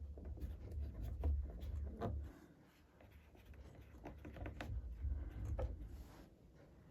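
Faint handling noise: light rubbing and scattered small clicks, over a low rumble that comes and goes.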